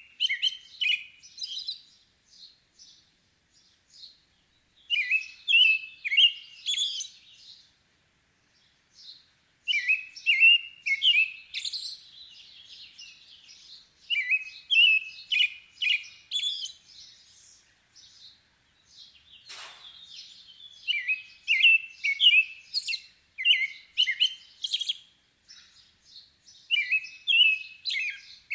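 A bird singing in repeated phrases of quick chirping notes, each phrase a couple of seconds long with short pauses between.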